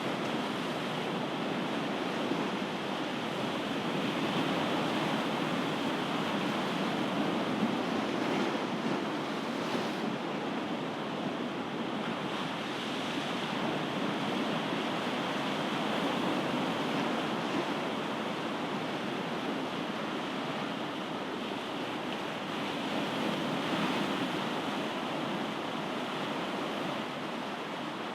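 Ocean surf: waves washing in continuously as an even rush of water, swelling and easing gently every several seconds.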